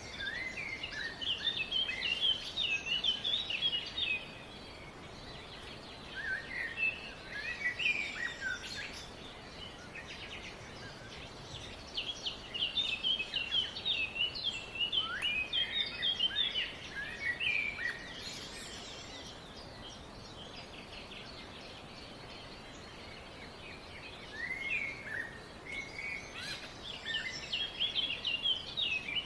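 Small songbirds chirping in quick, rapid runs of high notes, in four bouts of a few seconds each with pauses between, over a steady background hiss.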